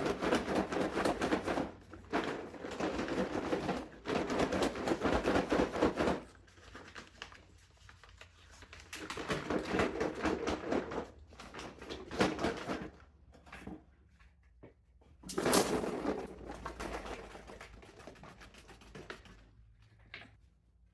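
Paper bag of hot caramel-coated popcorn being shaken and handled, rustling and rattling in several bursts, heaviest in the first few seconds, to coat the popped corn evenly between microwave bursts.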